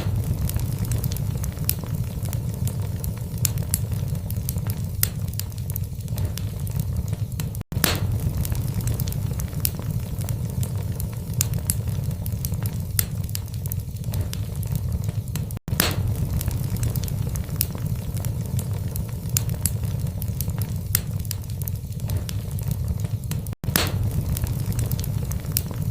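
Burning logs in a fireplace crackling, with frequent small sharp pops over a steady low rumble of the flames. The sound cuts out for a split second three times, about eight seconds apart.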